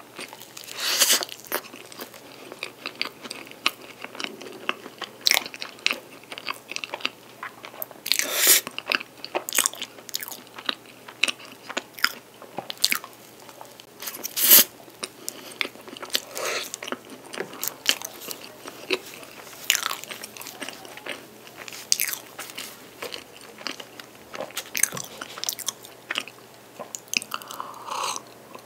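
Close-miked mouth sounds of someone eating a soft cream-filled pastry with strawberries from a fork: irregular wet chewing smacks and soft bites. Near the end comes a gulp of milk from a glass.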